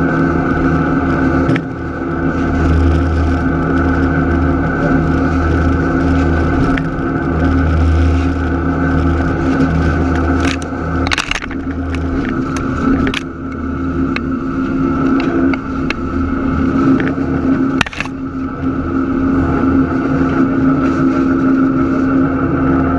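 NASA 2 diesel switcher locomotive running steadily under way, a droning engine note with a pulsing low throb. A few sharp clanks cut through, the loudest about halfway through and again about three quarters of the way in.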